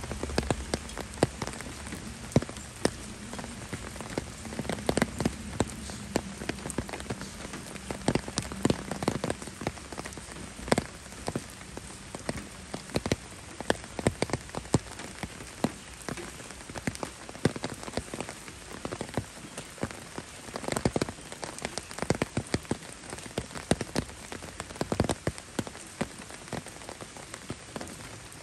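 Steady rain falling, with frequent irregular sharp taps of single drops striking.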